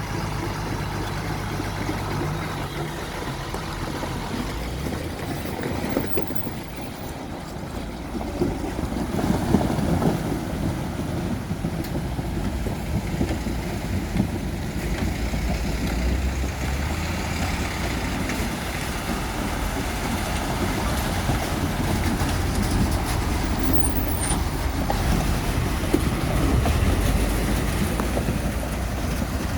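Truck engine running with a steady low hum and road noise, its note shifting a few times.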